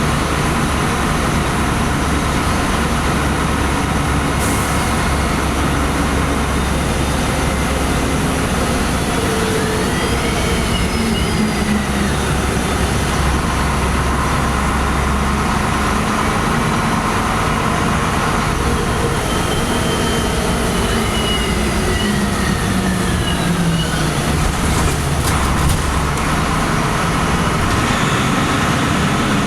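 LiAZ-5256 city bus running, heard from inside the cabin: a steady engine and road rumble, with a whine that glides up and then down in pitch twice, about ten and twenty seconds in.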